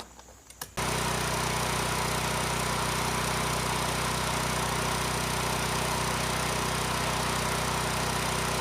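Sportsman 9000-watt portable generator's engine running at a steady, constant speed. It comes in suddenly about a second in, after a couple of faint clicks.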